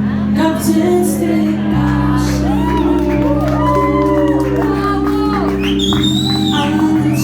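Live band instrumental with sustained keyboard chords that change about two seconds in and again near the end, with audience voices and whoops over them.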